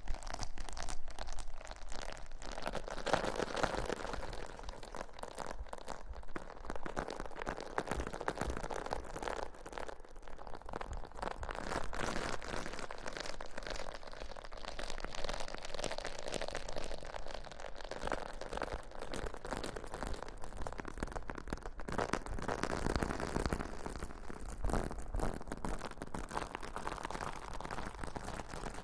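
Close-miked ASMR rustling: a continuous crinkly, crackling scrubbing texture that swells and eases every few seconds.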